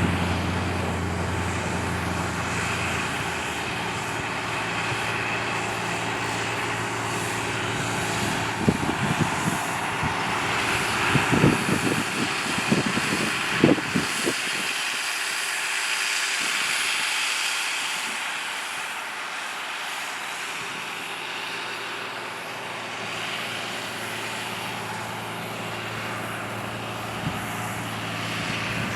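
John Deere 8300 tractor's diesel engine running steadily, its hum fading away after the first few seconds. A run of irregular rattles and knocks comes from about 9 to 14 seconds in.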